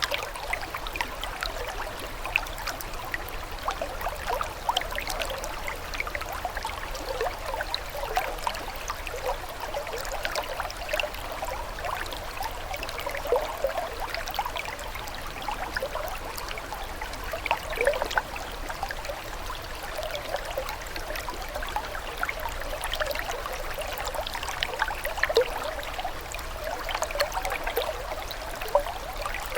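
Small stream of water trickling and bubbling steadily, with many small gurgles and splashes.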